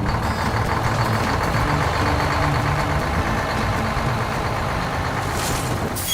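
Heavy truck engine running steadily with a dense, even rumble, a monster-truck engine sound effect.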